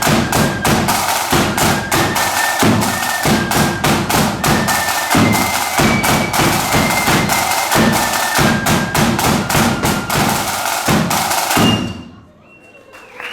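Marching flute band playing a tune over rapid, dense snare drumming and bass drum beats; the music stops abruptly about twelve seconds in.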